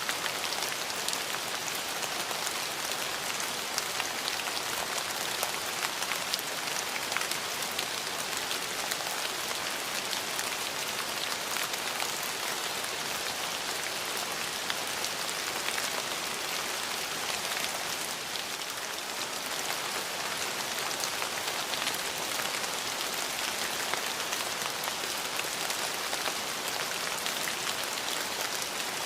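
Steady rain falling, an even hiss full of many small drop hits and patters.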